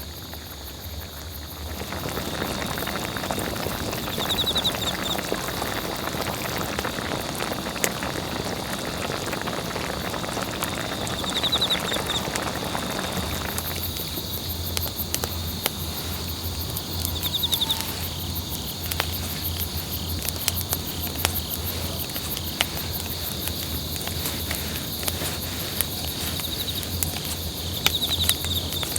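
Steady chorus of insects in the forest, with a short, high trilling call recurring every few seconds. A broad hiss runs through the first half, and there are scattered light clicks throughout.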